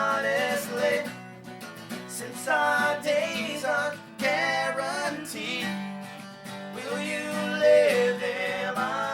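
A live acoustic band playing a song: strummed acoustic guitar under a singing voice that holds and bends its notes in short phrases.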